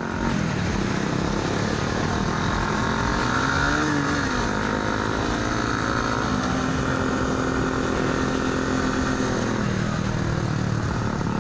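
Motorcycle engine running while riding, its pitch rising and falling with the throttle and holding steady for a few seconds in the middle.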